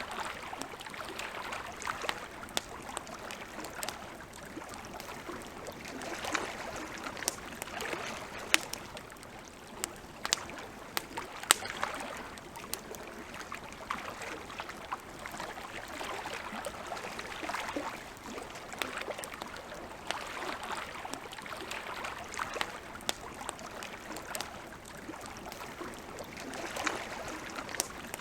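Campfire crackling: irregular sharp pops and snaps over a steady hiss, with a few louder pops around the middle.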